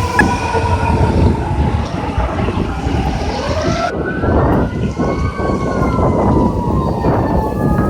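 Fire truck sirens wailing, two or more tones gliding up and down over each other, over the rumble of heavy fire apparatus engines. About four seconds in, another siren winds up.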